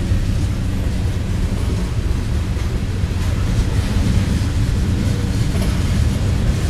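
Freight cars of a slow mixed freight train rolling past on the rails: a steady low rumble of steel wheels on track.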